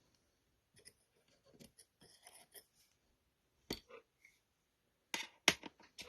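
Small steel parts of a Norinco M-77B pistol being handled during disassembly: soft scraping and light clicks, a sharper click about three and a half seconds in, and a few louder clicks near the end.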